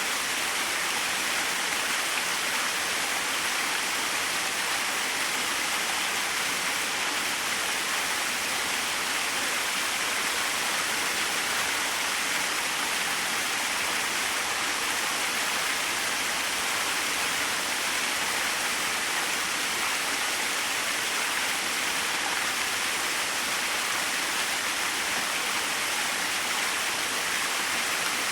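Small waterfall: water falling and splashing in a steady, even hiss with no breaks.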